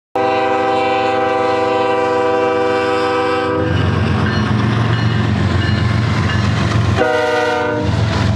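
Freight locomotive air horn sounding a long blast of several tones at once, then the heavy rumble of the passing train, with a second, shorter horn blast about seven seconds in.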